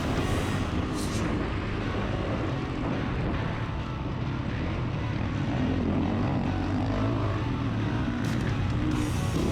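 Honda CRF450RX motocross bike's 450 cc single-cylinder four-stroke engine running under race throttle. Its pitch rises and falls as the rider works the throttle.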